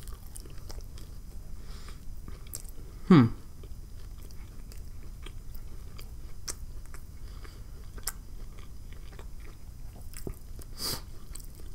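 Close-miked chewing of a mouthful of BLT sandwich: soft wet clicks and light crunches. About three seconds in comes one brief, loud hum that glides steeply downward, and there is a smaller breathy sound near the end.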